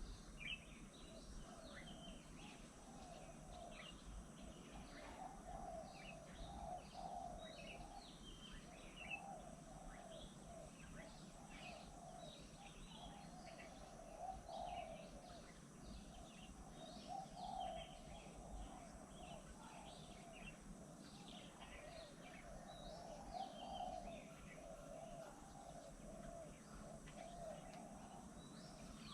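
Outdoor birdsong: many short, faint chirps and calls overlapping continuously over a low, steady background.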